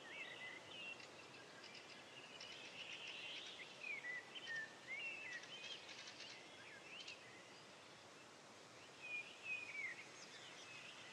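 Faint birdsong: short chirps and whistled phrases from small birds, over a steady background hiss.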